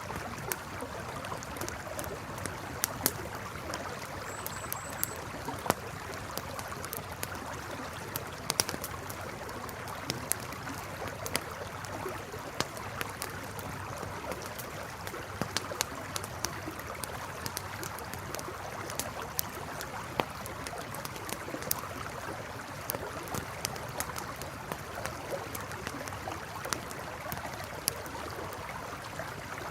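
Campfire crackling with irregular sharp snaps and pops, over the steady sound of a river flowing.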